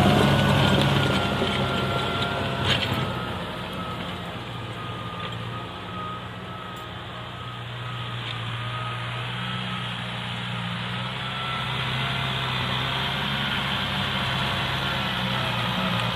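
Tractor engine running steadily. It fades over the first few seconds and grows louder again in the second half.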